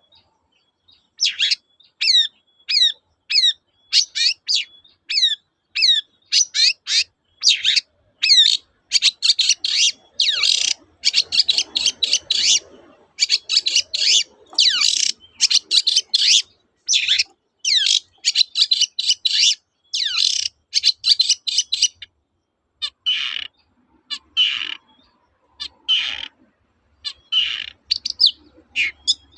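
Long-tailed shrike (cendet) singing: rapid strings of sharp, downward-sliding notes, several a second, giving way after about 22 seconds to a few slower, harsher calls spaced about a second apart.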